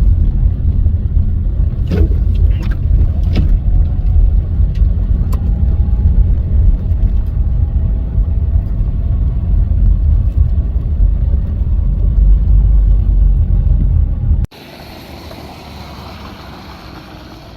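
Loud, steady low rumble of a motor vehicle, with a few faint clicks a couple of seconds in. It cuts off suddenly near the end, giving way to a much quieter hiss.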